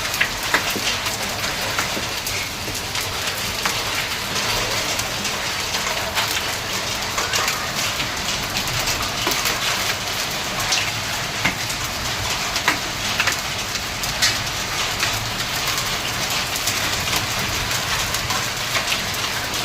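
Hail falling with rain: a steady dense hiss of downpour with many sharp clicks of hailstones striking surfaces.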